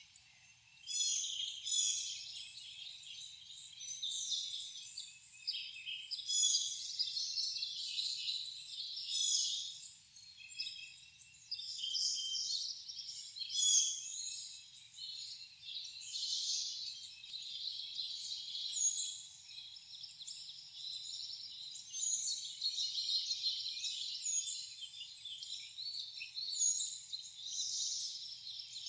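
Many wild songbirds chirping and calling at once, a dense overlapping chatter of high notes. From about two-thirds of the way in, one short, high, falling note repeats about every second and a half.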